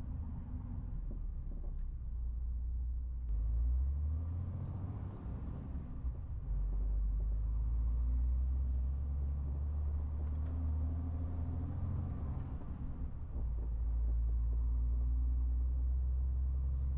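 MAN TGX 18.470 truck's diesel engine running with a deep, steady rumble and road noise while on the move. The rumble swells a few times, about three, six and thirteen seconds in.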